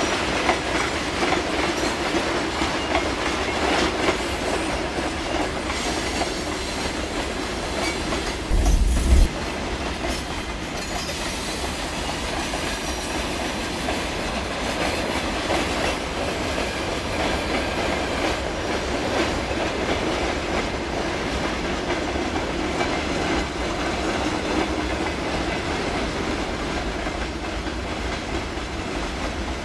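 Freight train rolling past, its wagons' wheels clicking steadily over the rail joints. A short, loud low thump comes about nine seconds in.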